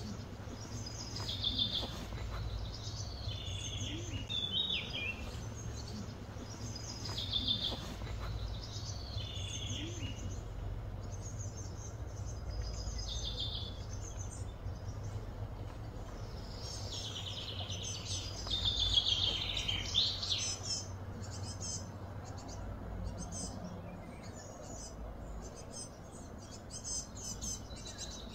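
Wild birds chirping and singing in short repeated phrases, with a denser, louder flurry of calls about two-thirds of the way through, over a steady low hum.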